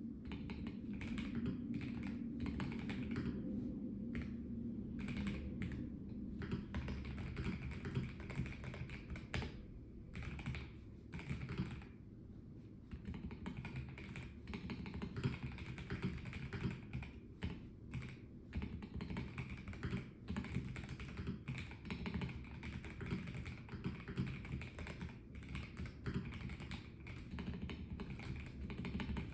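Typing on a Melgeek Mojo84 plastic mechanical keyboard: a fast, irregular run of key clicks with a few brief pauses, over a steady low hum.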